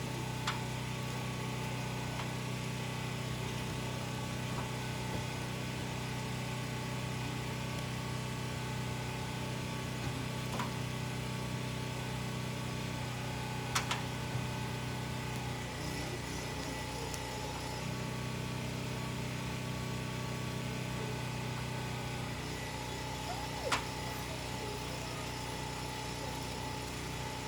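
Steady mechanical hum of an engine running, with a few sharp clicks scattered through it.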